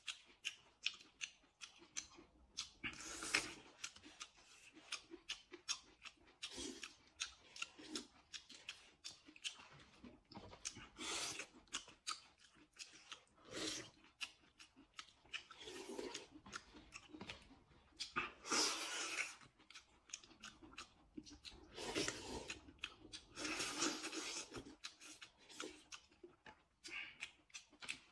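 Close-miked eating sounds: chewing and noodles being slurped from a cup, made up of many small clicks and crunches with short noisy bursts every few seconds.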